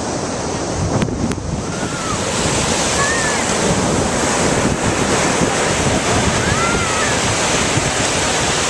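Ocean surf breaking on the beach with wind buffeting the microphone, swelling a little about two seconds in. Two sharp clicks about a second in, and a few short arched bird calls over the surf.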